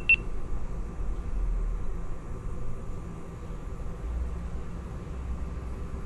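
A single short high beep right at the start, the last of a camera's start-recording beeps, then a steady low rumble of background noise.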